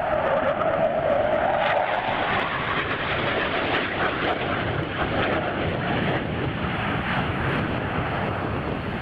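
Fixed-wing aircraft flying past, a loud steady engine noise; a higher pitched band in it fades out about two seconds in.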